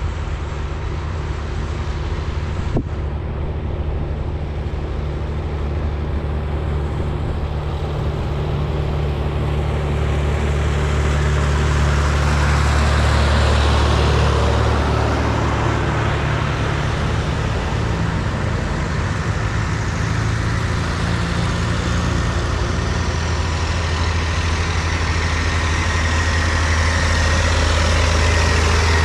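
Diesel tractor engines running steadily on the road, growing louder partway through.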